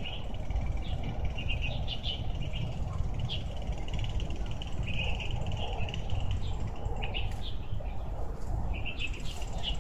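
Small birds chirping repeatedly in short phrases over a steady low rumble.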